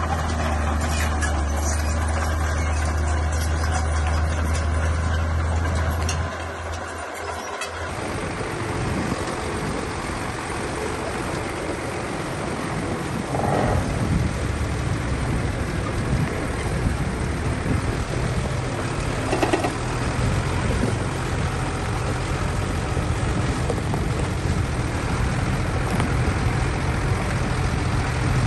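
Diesel engine of heavy earthmoving machinery running. A few seconds in, a steady hum gives way to a rougher, noisier engine sound, with two brief higher-pitched squeals partway through.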